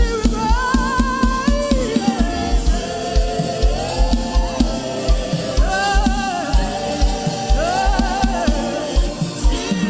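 Gospel worship music: sung vocals with backing voices over a steady drum beat.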